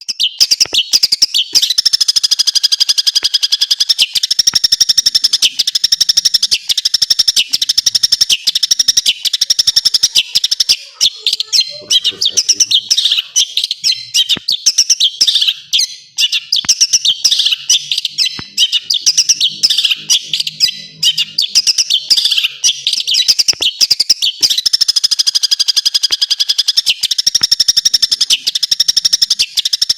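Long-tailed shrike (cendet) singing a rapid, high-pitched, unbroken song packed with mimicked calls of other birds.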